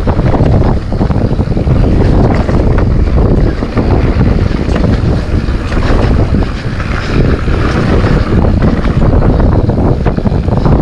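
Wind buffeting a camera microphone on a fast mountain-bike ride, with the tyres rumbling over the trail and the bike rattling and knocking over bumps.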